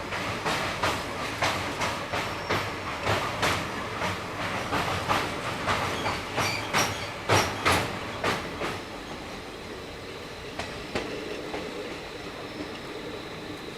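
Passenger coach wheels clicking over rail joints in a steady clickety-clack, about two to three clicks a second, heard on board the moving Howrah–Balurghat Express. After about nine seconds the clicks grow fainter and sparser over a steady rumble.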